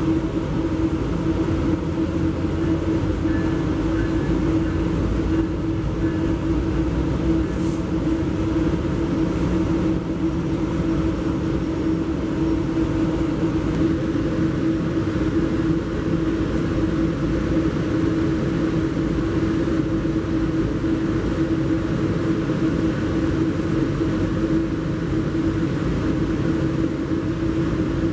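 Steady drone of a Metrolink commuter train heard from inside a passenger car, a constant hum over a low rumble.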